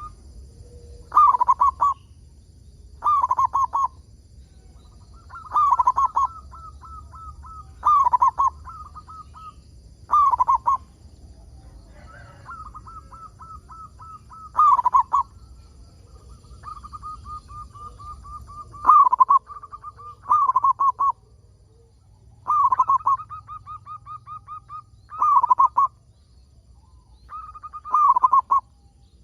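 Zebra dove (perkutut) cooing: loud coos about every two to three seconds, joined by quick rolling runs of softer notes.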